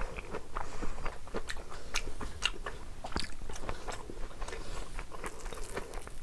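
Close-miked chewing of a mouthful of food, with many irregular wet mouth clicks and smacks.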